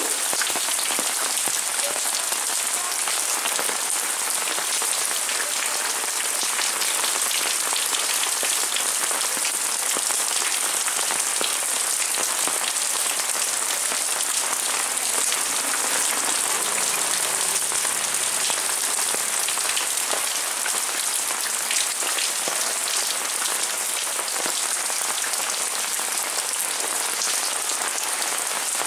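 Heavy rain falling steadily: a dense, even hiss made of countless small drop impacts on surfaces.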